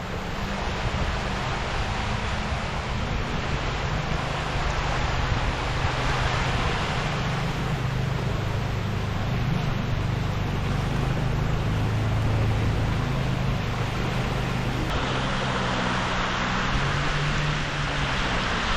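Jet ski engine running steadily over a constant rush of wind and water spray.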